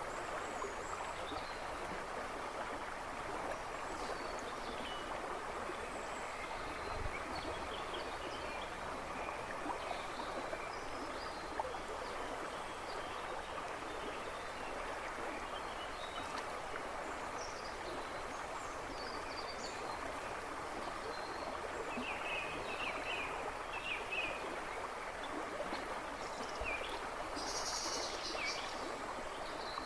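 A river running and splashing over stones, a steady rushing with a babbling ripple. Songbirds chirp and twitter faintly in the woods behind, more often in the second half.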